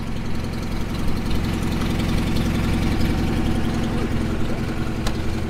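Classic rally car's engine idling steadily, with a single sharp click about five seconds in.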